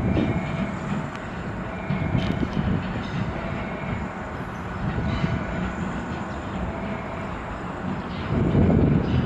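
Electric train pulling into a station platform: the running noise of wheels on the rails, with scattered knocks, growing louder near the end as it comes closer.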